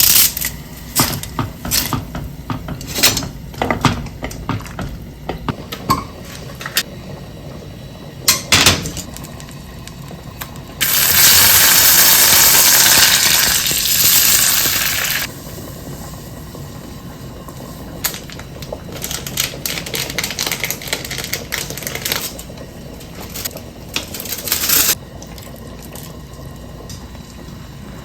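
Kitchen work sounds: dishes and utensils clinking and knocking, with water running steadily for about four seconds in the middle, then more clinks.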